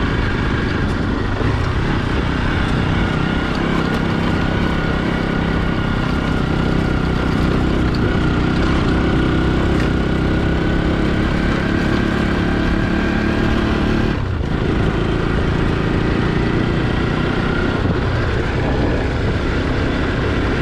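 Motorcycle engine running steadily while being ridden, with a heavy wind rumble on the microphone; the engine note eases off briefly about two-thirds of the way through, then picks up again.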